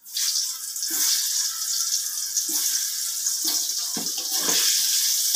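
Raw green mango slices sizzling in hot vegetable oil in a kadai, starting suddenly as they go in, then a steady hiss with scattered pops and crackles.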